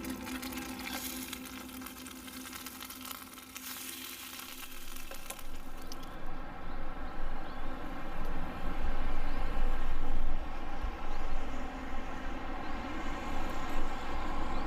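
Food sizzling in a frying pan for the first few seconds. About six seconds in, the sizzle stops and a louder, uneven rumbling noise takes over.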